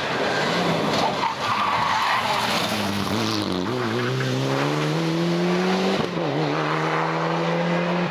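Rally car engine accelerating hard. Its pitch climbs steadily for a couple of seconds, then drops at a gear change and holds. Tyres squeal in the first couple of seconds.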